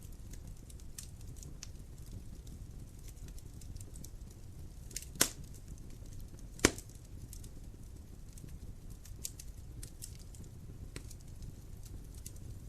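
Wood fire crackling in a fireplace: a steady low rumble of the flames under scattered small crackles, with two loud pops about five and six and a half seconds in.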